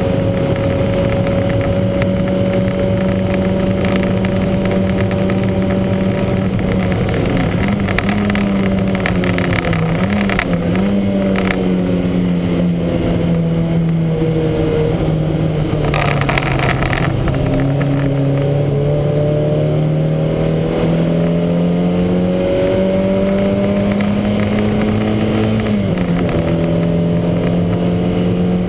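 Lancia Montecarlo race car's four-cylinder engine running hard under racing load, its note sagging in pitch around the middle as it eases off, then building back up, with a short burst of noise about halfway through. The engine is running with what the owner calls a huge misfire.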